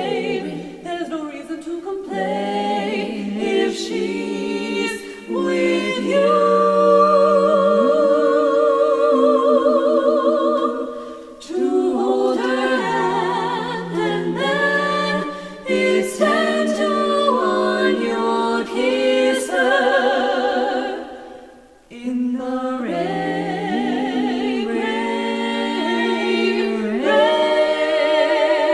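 Women's barbershop quartet singing a cappella in four-part close harmony, holding chords with vibrato. The singing breaks off briefly twice, about eleven and about twenty-two seconds in, then resumes.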